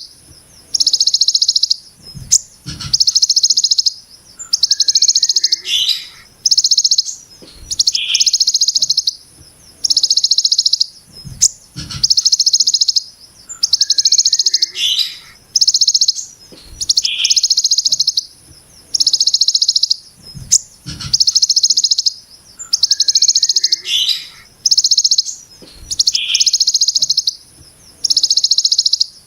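Kolibri ninja (konin) songbird repeating a dense, rasping high trill, the 'brem ciblek gunung' phrase. Each burst lasts about a second and comes roughly every one and a half seconds, with a few short lower notes between.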